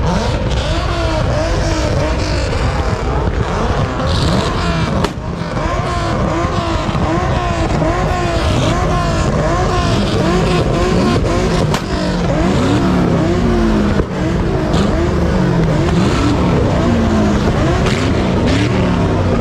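A car engine revving hard again and again, its pitch climbing and dropping in quick repeated surges.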